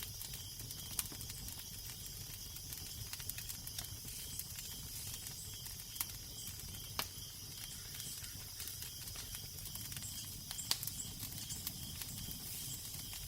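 Crackling fire: a steady hiss with irregular sharp pops and snaps, a few louder than the rest, over a low, even wind rumble.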